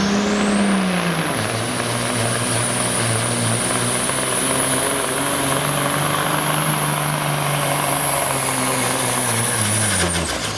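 Pulling semi truck's diesel engine running under full load, with a high turbocharger whistle that rises in the first second and then holds steady. The engine note drops a little about a second in, and engine and whistle wind down together near the end.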